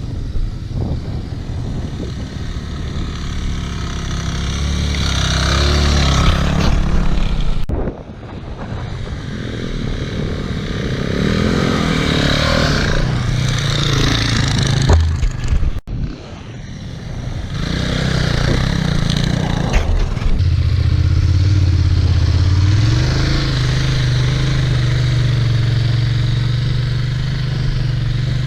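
KTM 990 Adventure's LC8 V-twin engine heard from on board, running under throttle. The level drops sharply twice, about eight and sixteen seconds in, as the throttle is briefly closed, then the engine pulls again and holds a steady note near the end.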